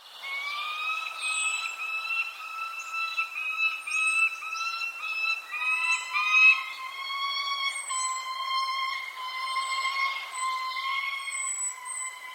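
Birds calling: a thin, high downward chirp repeated roughly once a second over a long, pulsing trill that starts suddenly and grows steadier halfway through.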